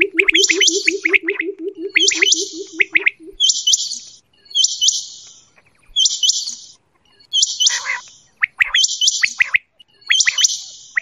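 Quail calling over and over, about once a second, each call a quick cluster of sharp, high chirps. A low, fast-pulsing buzz runs underneath and stops about three seconds in.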